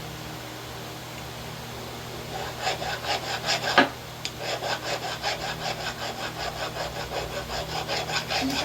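Rapid back-and-forth scraping strokes of a hand tool, like filing or hand sawing, about four a second, starting about two and a half seconds in. There is one sharper knock near four seconds in, over a steady low shop hum.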